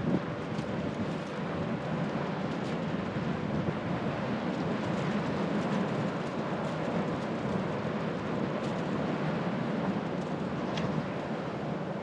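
Steady rolling noise of a moving e-bike, its tyres on the road, with a few light ticks and rattles.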